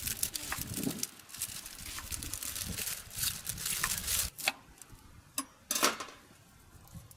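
Rustling and light clattering with a low rumble for about four seconds, then a few separate sharp knocks.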